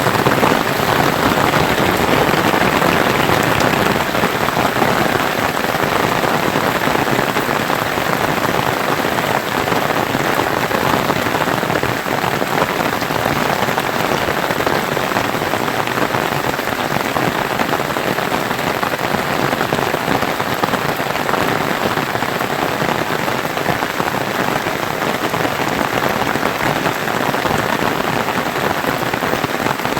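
Steady rain falling, a dense, even patter with no letup.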